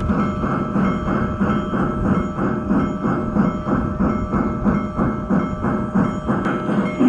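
Union Pacific Big Boy steam locomotive sound: steady rhythmic chuffing at about three beats a second over a continuous hum.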